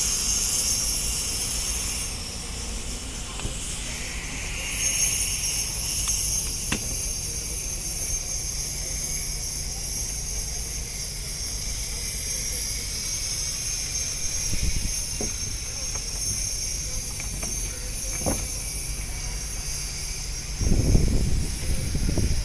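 Boat engine running with a steady low hum, under a high-pitched ringing hiss, with a few faint clicks. Heavy low rumbles come in near the end.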